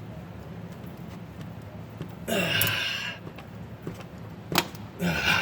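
Hand work on a seized EGR valve: two short straining noises, one a couple of seconds in and one near the end, with a single sharp metallic click between them, over a steady low hum.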